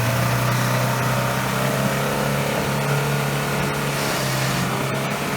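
Off-road vehicle engine running loud and steady at constant revs, its pitch wavering slightly and rising a little near the end.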